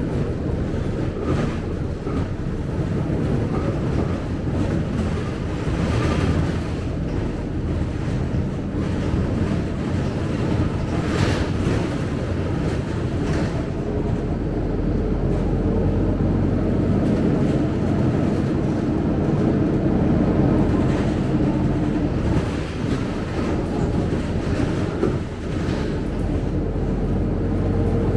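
Scania K270UB single-decker bus running on its diesel engine, a steady low rumble with a few short knocks and rattles.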